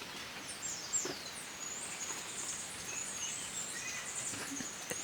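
Steady hiss of rain with birds chirping, and a thin high wavering call held through the second half.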